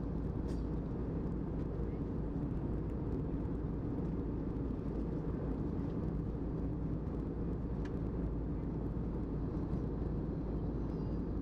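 Steady low roar of an airliner's cabin noise: engine and airflow noise heard from inside the aircraft, with a few faint clicks.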